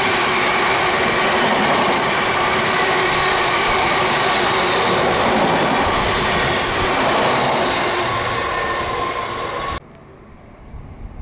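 Rake of open box freight wagons rolling past close by: loud steady wheel-on-rail noise with a faint high squealing tone. It cuts off suddenly near the end, leaving a much quieter distant background.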